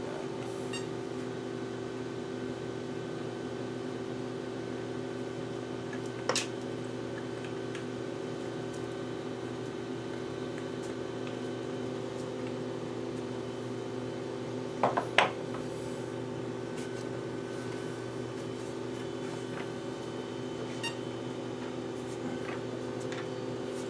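Steady mechanical hum of a small motor, like a fan or appliance, running without change. A sharp click sounds about six seconds in, and a quick pair of clicks about fifteen seconds in.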